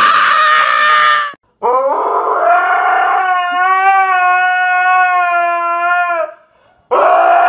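A dog howls three times: a short howl, then a long steady one of about four seconds, then another short one.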